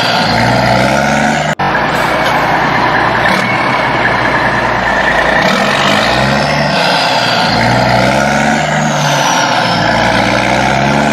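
Truck engine sound revving up and down again and again, with a brief cut about a second and a half in.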